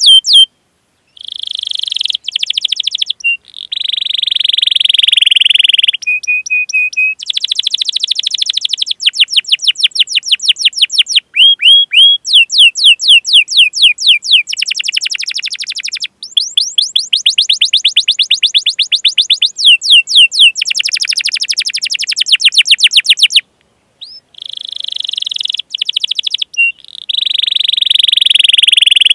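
Domestic canary singing a long song of fast repeated trills and rolling buzzy phrases mixed with sharp 'cuit cuit' chirps, broken by brief pauses about half a second in and again near the three-quarter mark.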